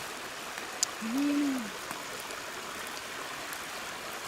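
Stream water running steadily, with a short rising-and-falling hum-like voice sound about a second in.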